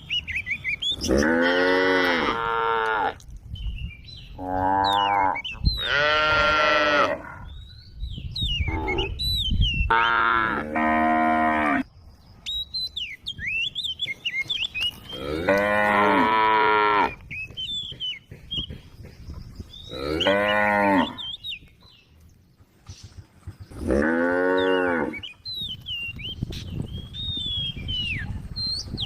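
Cattle mooing: about seven long, drawn-out calls spaced through the stretch, each call bending up and down in pitch.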